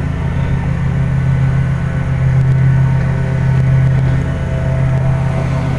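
Central air-conditioner condensing unit running: a steady, loud hum from the compressor and fan, unchanging throughout.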